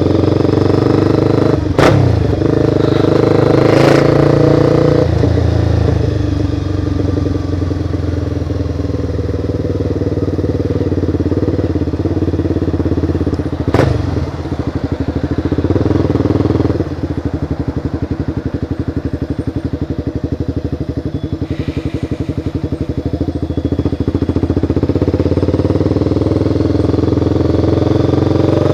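A Honda CBR motorcycle's engine running under way, heard from a camera mounted on the bike. The note eases off twice, there are two sharp clicks about 2 and 14 seconds in, and the engine picks up again near the end.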